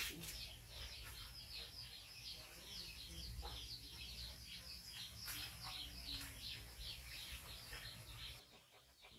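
A small bird chirping steadily, a quick run of short calls about three a second, faint over a low background rumble that cuts out near the end.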